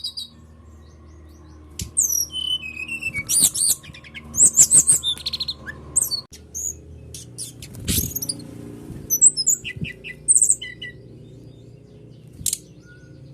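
Brown-chested jungle flycatcher (sikatan rimba dada coklat) singing a varied song of high chirps, slurred whistles and short trills in scattered phrases, with brief pauses between them.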